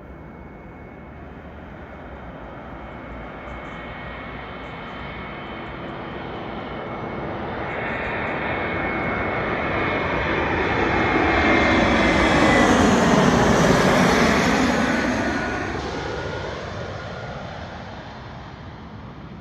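Wizz Air Airbus A320-family jetliner passing by on landing approach: its turbofan engines swell steadily to a peak about two-thirds of the way through, with a high whine that drops in pitch as it goes past, then fade away.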